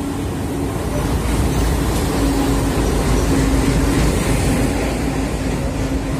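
Train arriving at a platform: a WDG-class diesel locomotive passes close by, then its passenger coaches roll past on the rails in a steady loud rumble that grows to its loudest a few seconds in.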